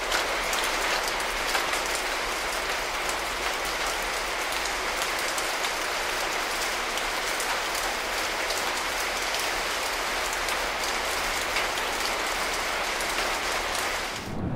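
Heavy rain pouring onto a wet paved street: a steady hiss with a dense patter of individual drops. It cuts off abruptly near the end.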